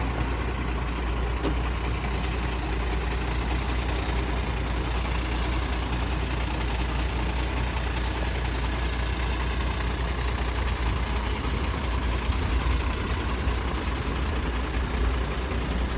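Heavy diesel trucks running on the road: a steady low rumble of engines mixed with road noise, with no clear rise or fall.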